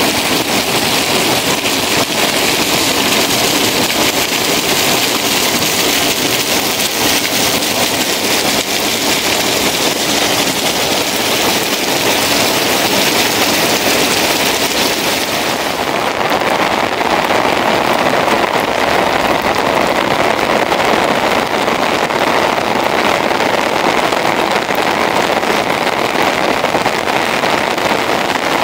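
Heavy rain falling steadily on pavement, puddles and wet ground, an even hiss throughout. About halfway through, the sound turns duller, with less of the high hiss.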